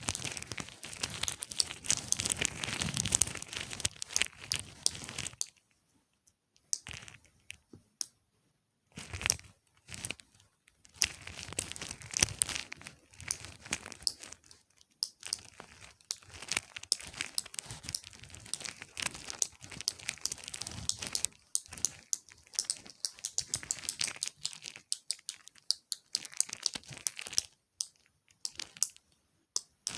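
ASMR tapping, clicking and brushing on objects: a dense run of rapid, crackly clicks and scratches, stopping briefly a few times.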